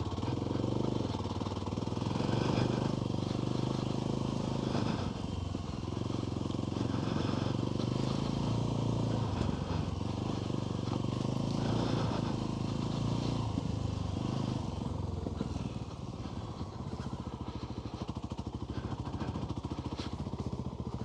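Off-road motorbike engine running at trail speed, the revs rising and falling every second or two, a little quieter over the last few seconds.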